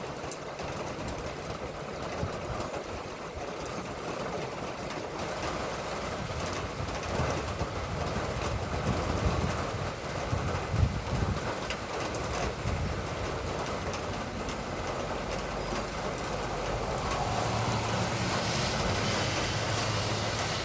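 Steady rain, an even hiss of many fine drops. A low rumble swells in the middle and again near the end.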